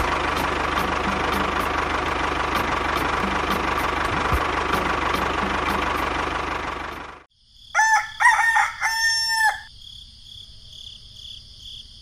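A toy tractor's small motor runs with a steady whirr and faint regular clicking, then cuts off suddenly about seven seconds in. A rooster crows once, and crickets chirp steadily after it.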